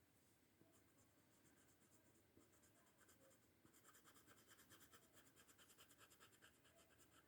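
Faint, rapid colouring strokes of a drawing tool on paper, about five scratches a second, starting about halfway through.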